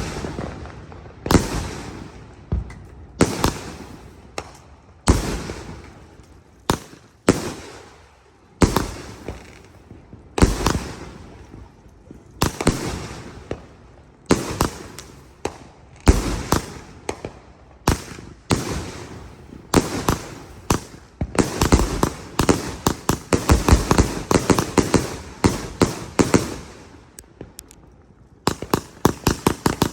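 A 300-shot consumer firework cake firing: loud bangs about one every second or two, each trailing off in a fading crackle. About two-thirds through, the shots speed up into a rapid, dense volley. The volley pauses briefly shortly before the end and then resumes.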